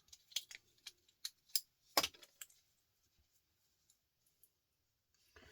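Small metal pieces clicking and tapping as they are handled: a string of light clicks with one sharper knock about two seconds in, dying away after about two and a half seconds.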